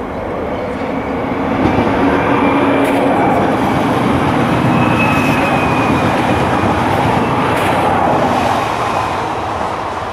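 An Alstom Régiolis regional train passes at speed. The rushing rumble of its wheels on the rails builds to its loudest about two seconds in, with a faint high whine through the middle. The sound then fades over the last couple of seconds as the train moves away.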